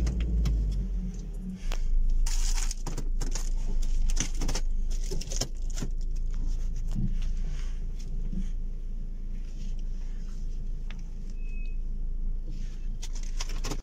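Car engine idling steadily, heard from inside the cabin, with a run of clicks and knocks about two to five seconds in and scattered clicks later, from hands working the controls.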